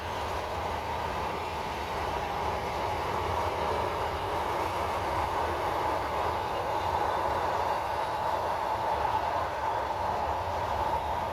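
A train's cars rolling past on the rails, a steady rumble with a constant ringing rail noise, slightly louder past the middle.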